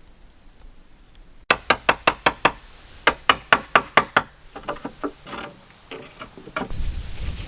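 Sharp knocks on wood in two quick runs of about six blows each, roughly five a second, followed by a few fainter, irregular knocks. A steady rushing noise begins near the end.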